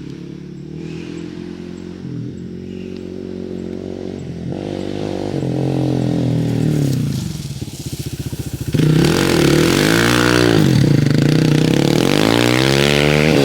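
Hero XPulse 200 4V's single-cylinder four-stroke engine running steadily. About four and a half seconds in it revs up and back down. Near the middle it jumps much louder and revs hard, its pitch swinging up and down over a rushing noise.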